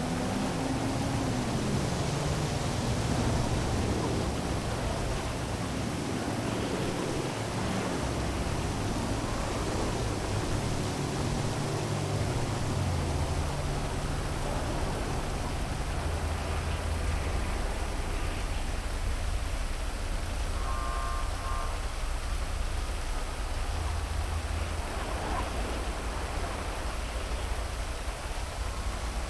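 Heavy rain falling over a city, a steady hiss with a low rumble of traffic underneath; a vehicle passes in the first couple of seconds.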